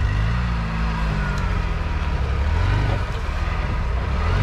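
Engine of a 4x4 off-roader driving along a rough track, its pitch rising and falling with the throttle.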